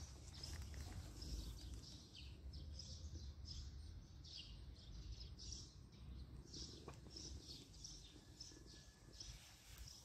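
Faint chirping of small birds: short calls repeating a couple of times a second, over a low steady rumble.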